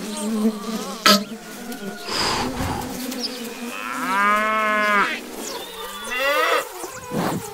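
A sharp click about a second in, then a cow mooing: one long moo that rises and falls about four seconds in, followed by a shorter rising call.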